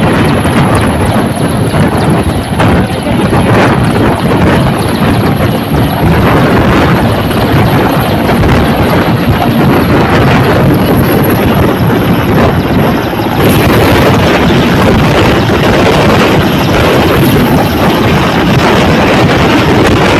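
Boeing CH-47 Chinook twin-rotor helicopter running close by, loud and steady, with a thin high whine above the rotor and engine noise; it grows a little brighter about two-thirds of the way through.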